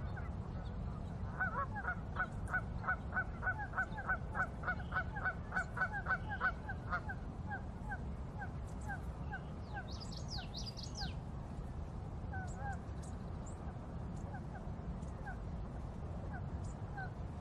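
A bird calling in a fast series of short repeated calls, about three a second, that thin out to occasional calls after about seven seconds. A brief burst of higher chirping from a smaller bird comes about ten seconds in, over steady low background noise.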